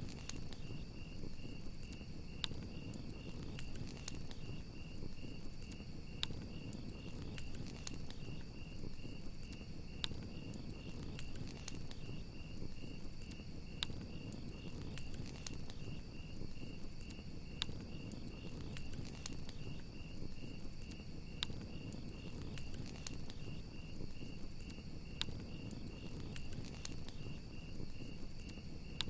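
Crickets chirping in a steady, rapidly pulsing trill over a crackling campfire, with sharp pops every few seconds.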